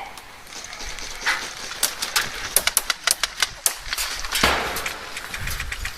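Airsoft guns firing: a quick, irregular string of about a dozen sharp cracks between about two and four seconds in, then a single louder crack near the end.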